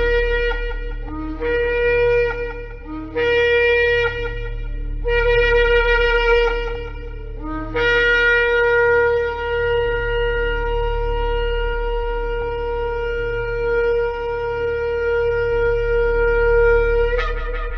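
Shofar blown in four short blasts, each breaking from a low note up to a higher one, then one long held note of about nine seconds, with a new blast starting near the end. A steady low hum runs underneath.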